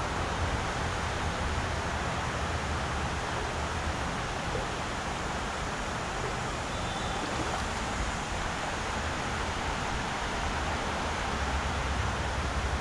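Mountain river rushing: a steady wash of water noise with a low rumble under it.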